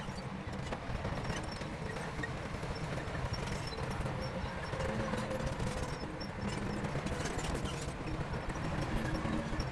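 Crawler bulldozer's diesel engine running steadily, with the irregular clanking and clicking of its steel tracks.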